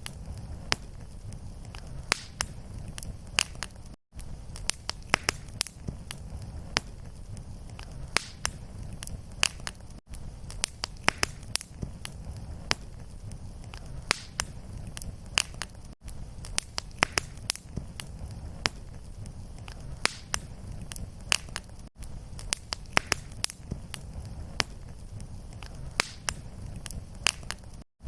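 Fireplace fire crackling, with frequent sharp pops and snaps over a steady low rumble. The sound cuts out for an instant about every six seconds, where the looped recording restarts.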